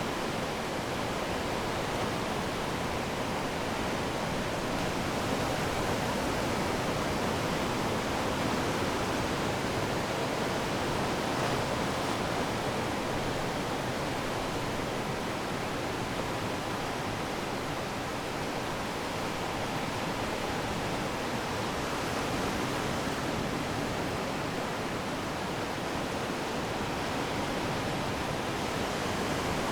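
Ocean surf on the shore, a steady even rush of water with no single wave breaking out above it.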